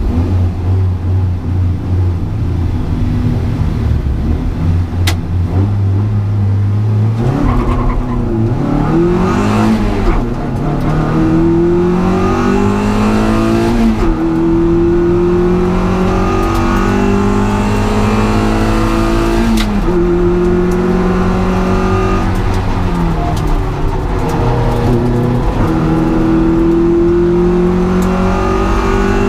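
Honda Integra DC2 race car's four-cylinder engine under racing load, running low and steady for the first several seconds, then revving up through the gears, its pitch climbing and dropping back sharply at each of four upshifts.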